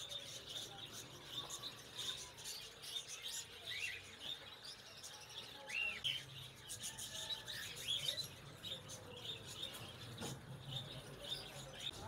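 Many small caged birds, lovebirds among them, chirping together in a constant stream of short high calls. A few longer arched calls stand out now and then.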